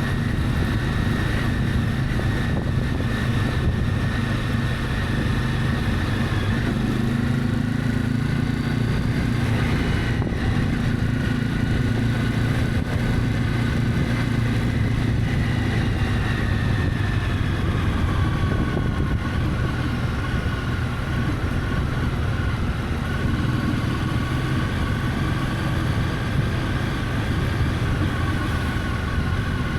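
Honda CB300F motorcycle's single-cylinder engine running steadily while riding, its pitch rising a little several seconds in and easing down around the middle. Road and wind noise run underneath.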